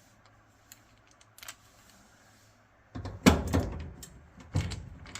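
Knocks and clunks of dryer housing parts being handled and fitted by hand, a few light ticks at first, then a string of loud clatters from about three seconds in.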